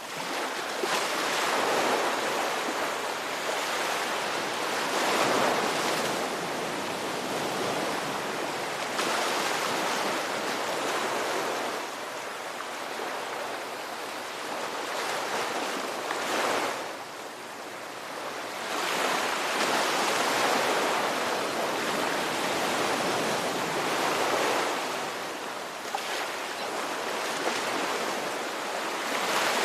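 Ocean waves breaking and washing on a shore, a continuous surf rush that swells and ebbs every few seconds.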